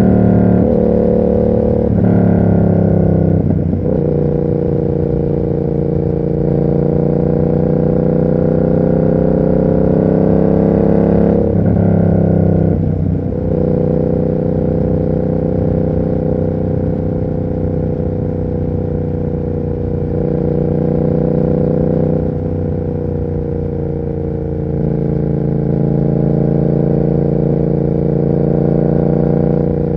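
Yamaha MT-07's parallel-twin engine through an SC Project aftermarket exhaust, running under way. The pitch changes through a few gear changes in the first few seconds and again about twelve seconds in, then holds a fairly steady cruising note.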